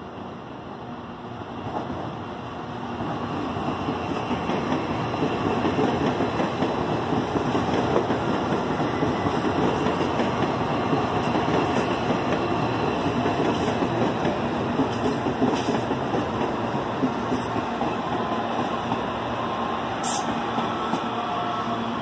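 CPTM electric multiple-unit train running into the station alongside the platform. Its rolling noise swells about two to three seconds in and stays loud, with a few sharp clicks, and a faint whine falls in pitch near the end as it slows.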